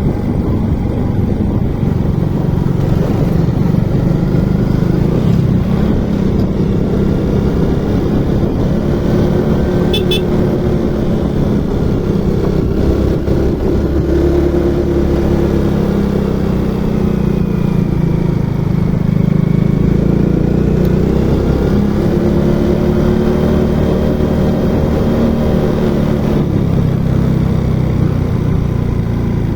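Motorcycle engine running under way, its pitch slowly rising and falling with changes in speed. A brief high click about ten seconds in.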